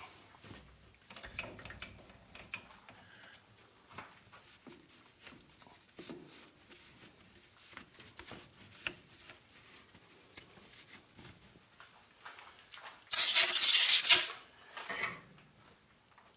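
Faint clicks and scrapes of a small machined metal part being handled, then about a second of loud hiss from a compressed-air blow gun near the end, blowing chips and crud out of the part.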